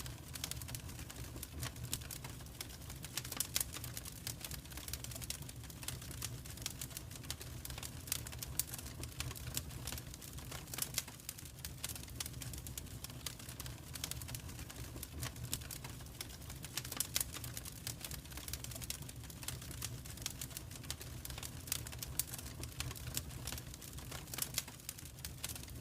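Wood fire crackling in a fireplace: irregular sharp snaps and pops over a low steady hum.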